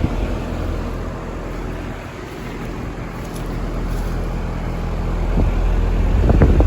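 Goodman heat pump outdoor unit running: a steady low hum from the compressor and condenser fan, with a low rumble that swells near the end.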